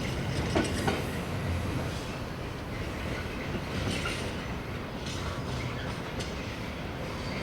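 A train running on the track: a steady low rumble, with two sharp clicks close together near the start and fainter ticks after.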